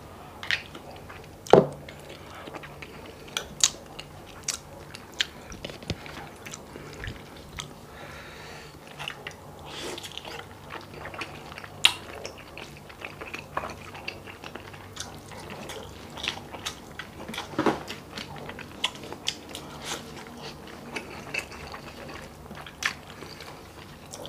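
Close-up eating sounds: chewing and wet mouth smacks while eating gelatinous stewed beef skin (balbacua) with rice, with scattered sharp clicks.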